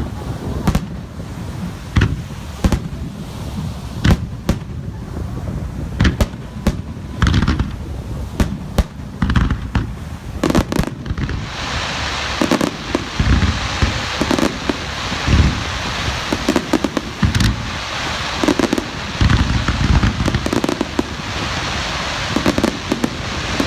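Aerial fireworks bursting: a rapid, irregular series of sharp bangs and deep booms. From about halfway a steady hiss joins in under the bangs.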